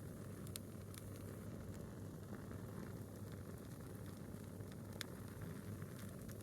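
Wood fire burning a single log: a steady low rush with a few sharp crackles, the loudest about five seconds in.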